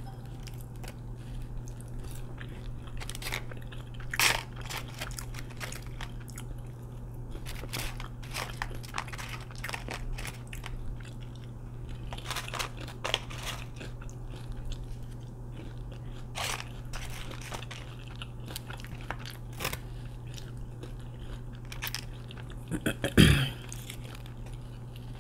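Close-miked chewing and crunching of waffle fries dipped in sauce, with scattered mouth clicks and smacks over a steady low hum. A louder burst of mouth sounds comes near the end.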